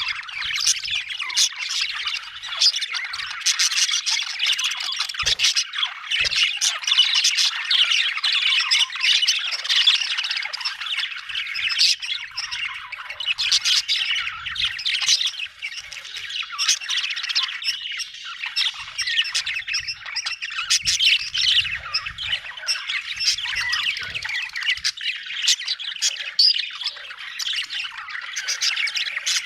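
Budgerigars chirping and chattering without a break: a busy stream of quick chirps, squawks and warbles that overlap one another.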